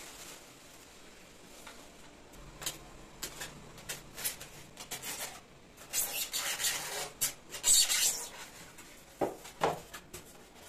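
Irregular scratchy rubbing or scraping sounds in short bursts, loudest in the middle, followed by two soft knocks near the end.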